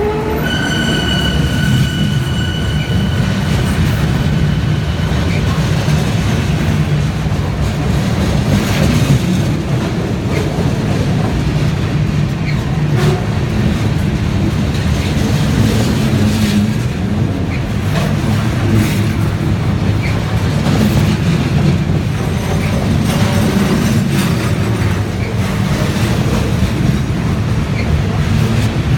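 Freight train cars rolling over a railroad bridge close by: a heavy, steady rumble with occasional clacks of wheels over rail joints. A high wheel squeal sounds for the first few seconds.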